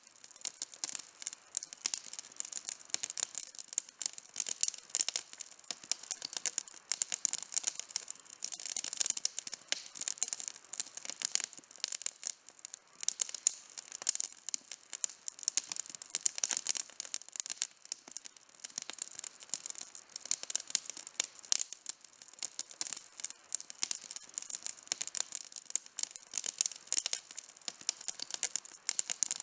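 Outdoor campfire burning, with dense, continuous crackling: many short sharp pops and snaps from the burning wood.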